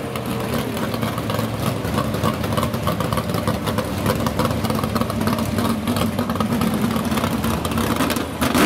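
Pontiac Firebird drag car's engine idling with a rapid, uneven pulse as it creeps toward the starting line after its burnout.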